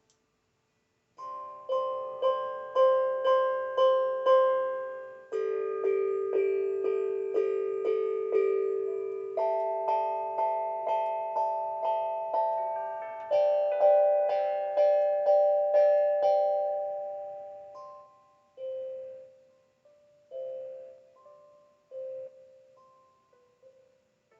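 Background music on a piano-like keyboard: a chord struck again and again, each note ringing away, with the harmony shifting every few seconds, then thinning out to a few scattered single notes near the end.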